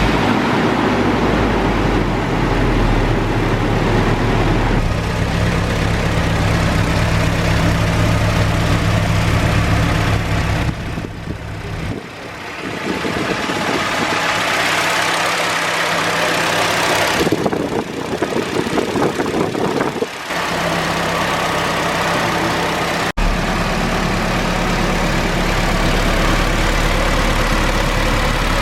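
Nissan S15 Silvia's four-cylinder engine idling to bleed air from its freshly filled cooling system after a radiator swap. The idle is steady, and its tone changes abruptly several times.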